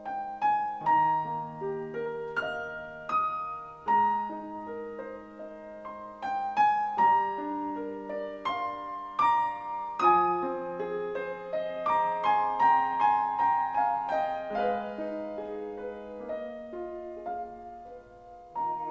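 Slow, gentle solo piano music, single notes and chords struck and left to ring.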